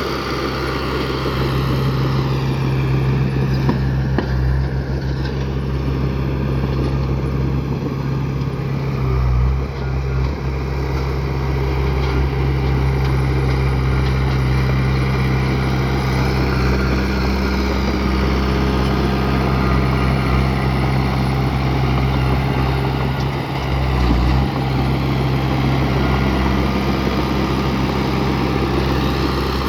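Bulldozer's diesel engine running steadily at a working load. Its tone dips briefly about a third of the way in and again near the end.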